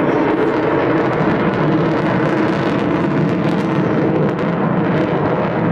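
Avro Vulcan XH558's four Rolls-Royce Olympus turbojets at full throttle: a loud, steady jet roar with a crackle in it.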